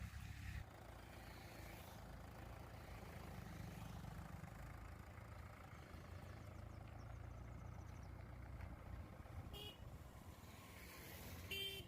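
Faint steady low engine rumble, with two short high toots near the end.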